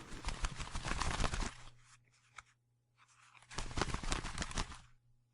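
Crinkling, crackling rustle in two bursts of a second or so each, with a quiet pause and a single click between them.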